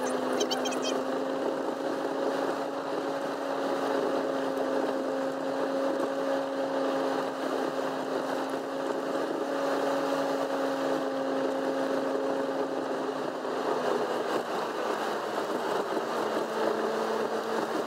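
Vehicle idling while stopped, heard from inside the cabin: a steady hum that drops slightly in pitch about 14 seconds in.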